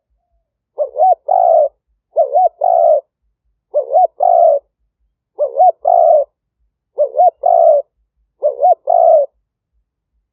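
Spotted dove cooing: six phrases about a second and a half apart, each a quick hooked note followed by a longer coo.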